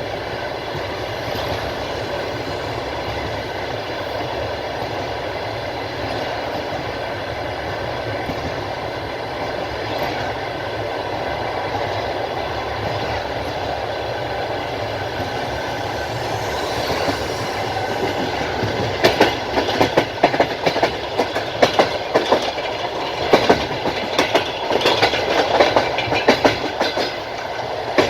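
Passenger train wheels running on the rails with a steady rumble. From about two-thirds of the way in comes a run of rapid, irregular clacks of the wheels over rail joints.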